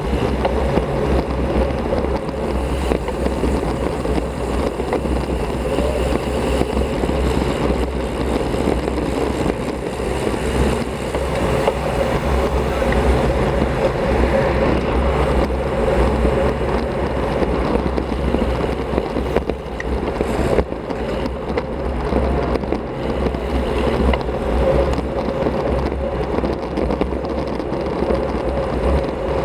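Steady wind and rolling noise on a bike-mounted action camera while riding a road bike, a constant rush with a heavy low rumble.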